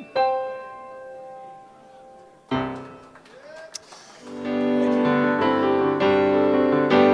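Piano-toned keyboard accompaniment. A chord is struck just after the start and left to ring out, another follows about two and a half seconds in, and from about four seconds a louder, fuller keyboard passage begins, leading into the next song.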